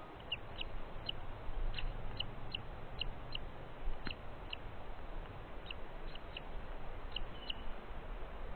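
A small bird chirping, short high peeps about two a second with a short pause partway through, over a low steady rumble.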